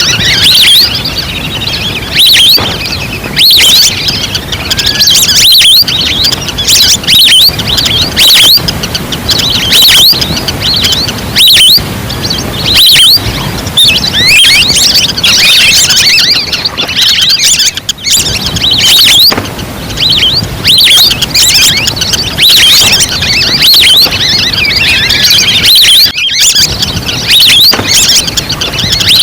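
A flock of whistling ducks calling, with many short, high whistles overlapping thickly and continuously. It is a lure call used to draw wild ducks in.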